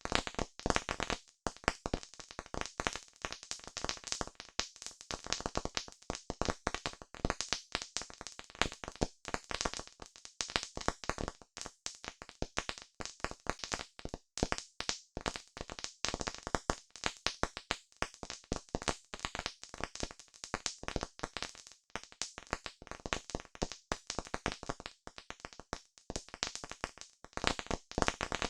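Campfire crackling: a dense, irregular run of sharp pops and snaps, several every second.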